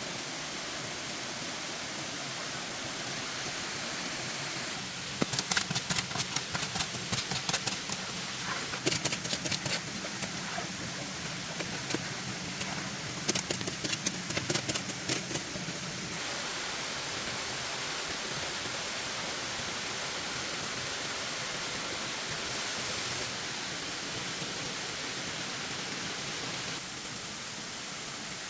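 Steady rushing hiss with two spells of rapid, sharp knocking, each lasting a few seconds, that stand out above it.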